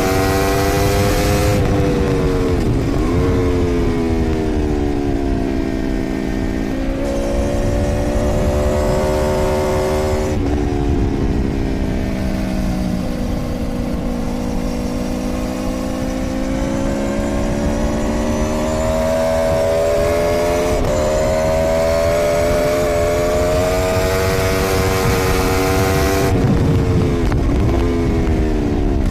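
Onboard sound of a 2013 Aprilia Tuono V4's V4 engine at track speed, its pitch rising and falling through corners and gear changes, with wind rushing over the microphone loudest at the start and near the end.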